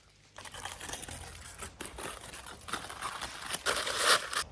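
Crinkling and rustling of a wrapping being pulled open around food just cooked on a campfire, growing louder near the end.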